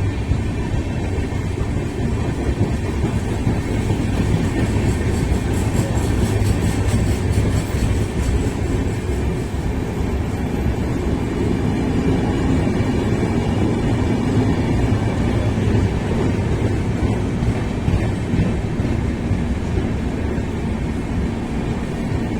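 Express train running through a station at high speed without stopping: steady wheel-on-rail noise from the passing coaches.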